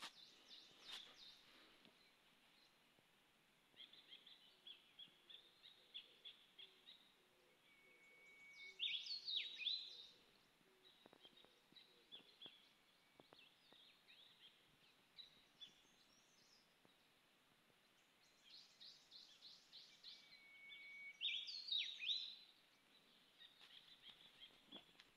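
Wild birds singing in woodland: runs of short high chirps, and twice a louder song phrase that opens on a held whistle and breaks into quick falling notes.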